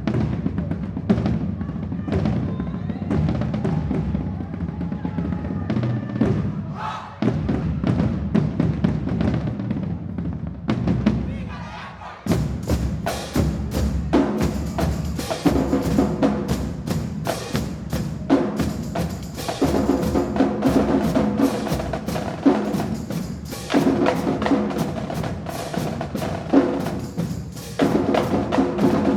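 Marching drumline playing a cadence on snare, tenor and bass drums, with a break about a third of the way through and a dip near the middle, after which it comes back in denser and brighter.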